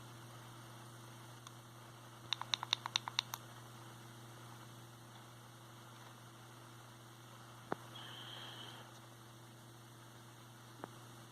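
Rapid clicking of the Rx Mini kit's push button, about seven presses in a second, then single clicks later on as the button is pressed again: the device stays dead and will not power on. A faint brief high whine about eight seconds in, over a steady low hum.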